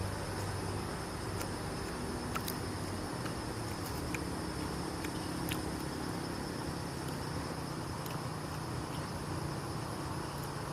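Steady insect chorus, a high even drone over a low background hum, with scattered faint small clicks.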